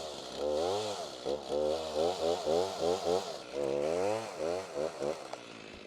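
Stihl Farm Boss MS290 two-stroke chainsaw revved up and down over and over, its pitch rising and falling about twice a second, then cutting off about five seconds in.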